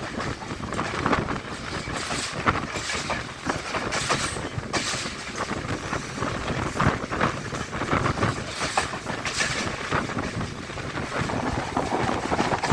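Passenger train running along the line: steady running noise with irregular clattering and rattling of wheels on rails.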